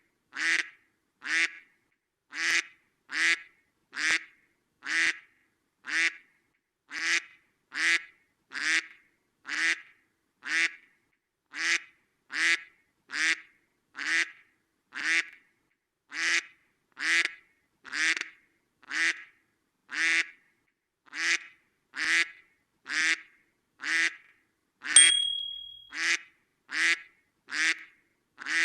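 Duck quacking over and over at an even pace, about three quacks every two seconds, each call the same. About 25 s in, a brief loud sound with a steady high tone lasts about a second over the quacks.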